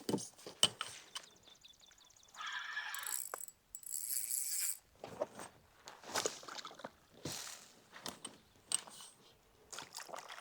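Fishing reel ratcheting in a rapid run of fine clicks about two seconds in, as a hooked fish is played from the kayak, followed by scattered short knocks and rustles.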